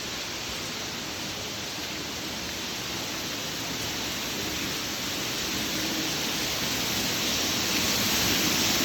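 Water rushing steadily from a pipe burst by freezing, a constant hiss and splash that grows louder toward the end.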